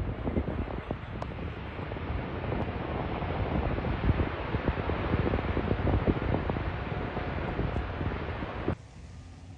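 Tornado wind rushing and buffeting the microphone in a loud, gusty roar with frequent thumps. About nine seconds in it cuts off abruptly to much quieter sound.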